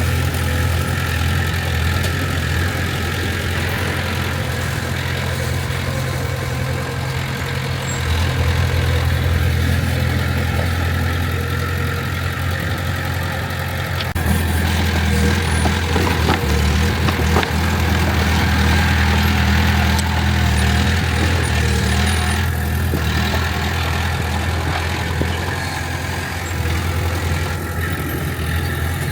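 Heavy diesel engine of earthmoving machinery running steadily with a low rumble. It grows louder about eight seconds in and revs up about fourteen seconds in.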